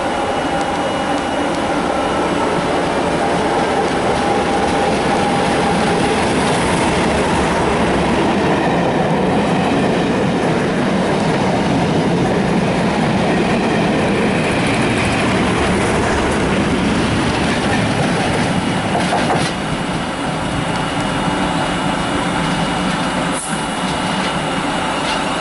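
A test train hauled by a pair of English Electric Class 37 diesel locomotives passing close by at speed, the engines' sound mixed with the steady noise of the coaches' wheels running on the rails.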